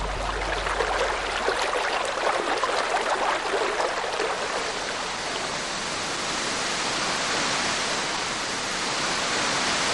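Rushing water, a steady, even rush with a little splashing flicker in the first half.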